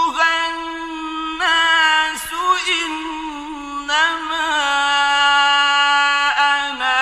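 A male Quran reciter chanting a verse in melodic tajweed style. The solo voice holds long sustained notes, each broken by wavering melismatic ornaments and short glides in pitch.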